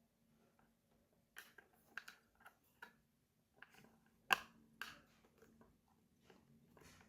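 Hands handling small plastic toy pieces and packaging, giving a scatter of separate light clicks and taps, the sharpest about four seconds in.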